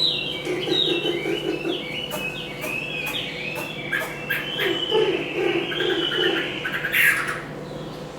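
Chinese hwamei singing a fast, varied run of short sliding whistled notes, with a brief noisy burst about seven seconds in.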